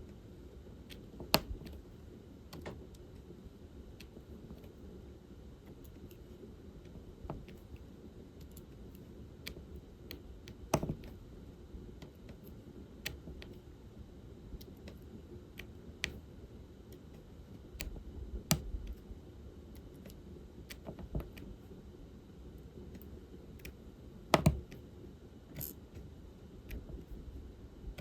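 Small sharp plastic clicks and taps at irregular intervals, a second or a few seconds apart: a diamond painting pen picking up resin drills and pressing them onto the adhesive canvas. A faint steady low hum runs underneath.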